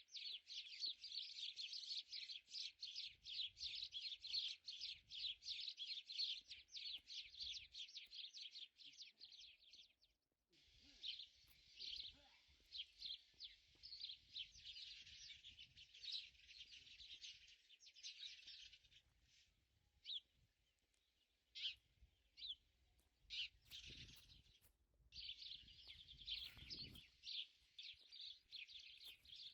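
Small birds chirping in quick, dense runs of repeated chirps. The run breaks off about ten seconds in, resumes, then thins to scattered single chirps before a new dense run starts near the end.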